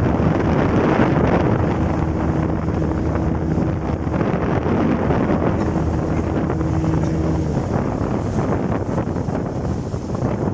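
Motorboat under way: a steady engine hum under heavy wind rush on the microphone and water noise. The engine's tone weakens after about seven seconds while the wind and water noise carry on.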